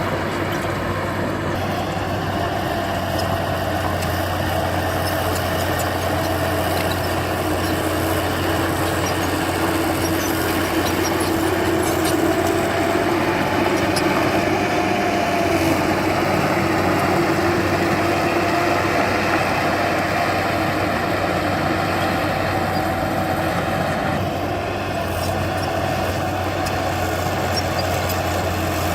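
Heavy diesel engine of earthmoving machinery running steadily. Its note rises slightly midway and eases about 24 seconds in.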